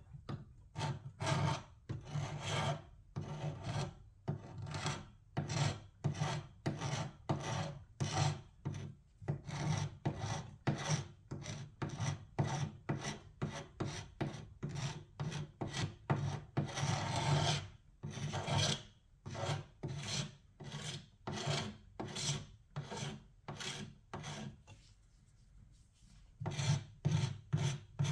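Old paint and finish being stripped by hand: rhythmic rasping strokes, about two a second. The strokes ease off briefly near the end, then start again.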